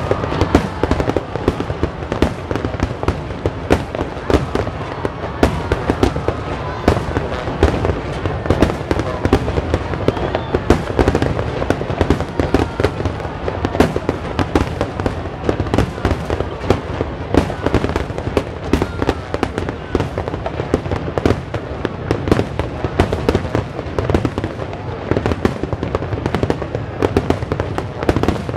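Fireworks display in a continuous barrage: rapid overlapping bangs and crackles, several a second, with no pause.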